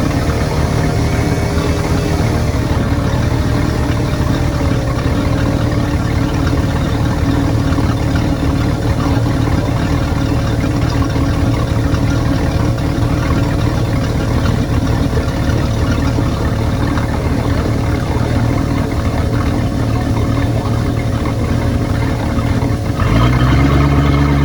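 2003 MerCruiser 5.0L MPI V8 sterndrive engine idling steadily, its pitch wavering slightly in the first few seconds; near the end the throttle is opened and it revs up, louder and rising in pitch.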